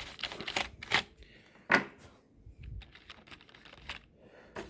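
Keys of a computer keyboard clacking and rattling irregularly as it is scrubbed clean, with one sharper clack a little under two seconds in.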